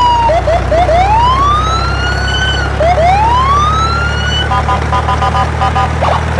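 Electronic siren sound effect. A short falling wail gives way to a few quick chirps and two long rising whoops, then a regular two-tone beeping from about four and a half seconds in and a rapid warble near the end, over a steady low hum.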